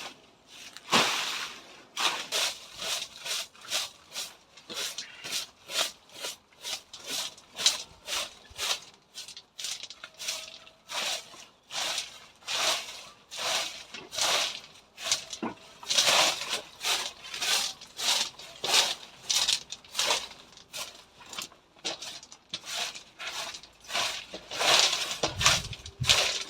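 Garden work in foliage: short scraping, rustling strokes repeat about twice a second, growing louder in a stretch about two-thirds of the way through and again near the end.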